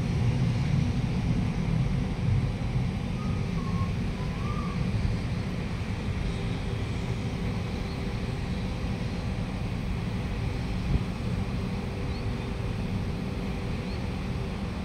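Electric metro train pulling out of an elevated station platform. Its low rumble is strongest over the first few seconds, then eases to a steady hum.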